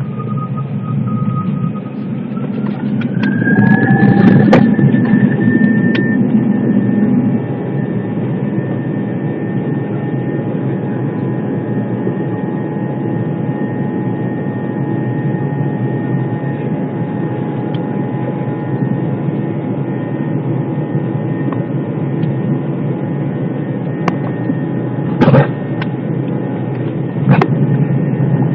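Jet airliner's engines spooling up for takeoff: a whine rises in pitch over about two seconds and then holds steady over a loud rumble. Two sharp knocks near the end.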